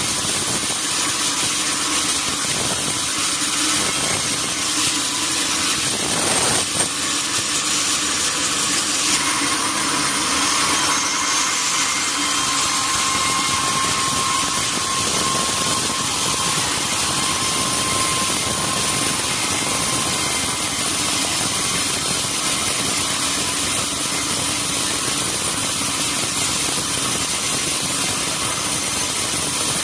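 Sawmill machinery running steadily with a loud hiss, with a brief knock about six and a half seconds in.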